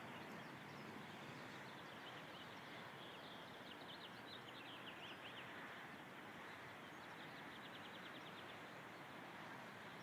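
Faint wild birdsong: scattered high chirps for a few seconds, then a quick trill of rapidly repeated notes near the end, over a steady background hiss.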